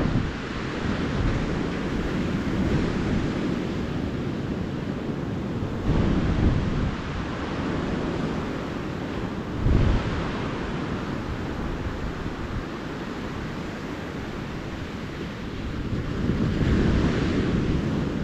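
Ocean surf washing onto a beach, a steady rush with waves breaking louder about six seconds in, again near ten seconds, and in a longer swell near the end.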